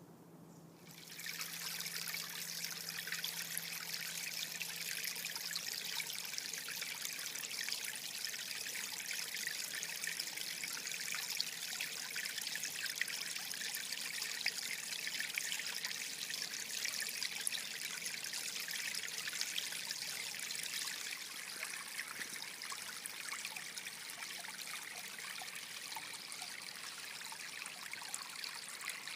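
Small stream trickling and burbling steadily. It starts about a second in and gets a little quieter in the last third.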